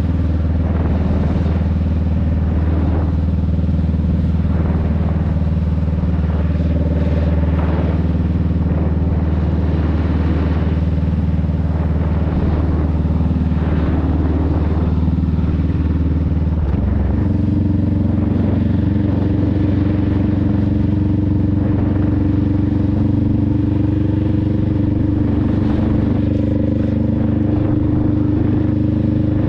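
Honda Rebel 500's parallel-twin engine and exhaust running steadily while riding. A little past halfway the engine note steps up suddenly, then holds steady again.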